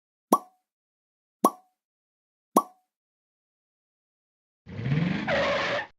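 Three sharp knocks, evenly spaced about a second apart. Then, for about a second near the end, a car sound effect: engine pitch rising with a tyre squeal.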